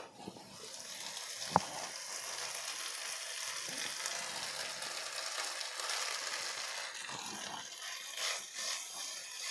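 Chopped vegetables in soy sauce, chilli sauce and vinegar sizzling steadily in a nonstick kadai, with one sharp tap about a second and a half in. Near the end a silicone spatula scrapes and stirs as soya chunks are mixed in.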